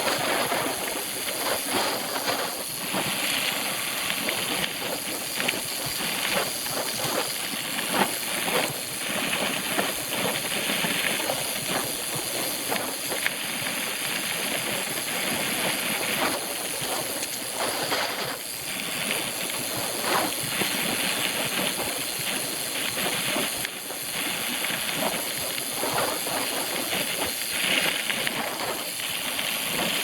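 Mountain bike being ridden over rough trail: a steady rushing noise of tyres on dirt and gravel, full of irregular rattles and knocks from the bike.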